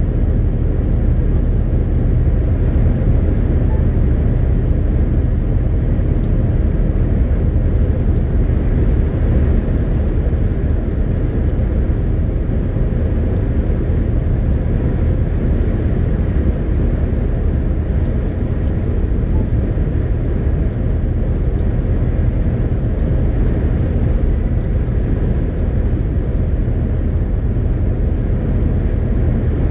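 MAN TGX 18.520 truck under way, its six-cylinder diesel and tyres giving a steady low rumble that stays even, with no gear changes or other events standing out.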